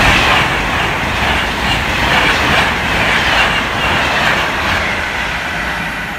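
Electric Class 390 Pendolino express train passing through at speed: a loud, steady rush of wheels on rail and air that eases slightly near the end.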